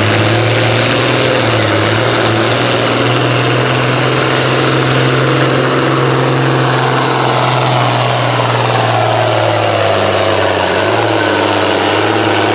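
Farm-stock pulling tractor's engine running hard under load as it drags the weight-transfer sled down the track, a loud steady drone. A higher whine slowly falls in pitch over the second half.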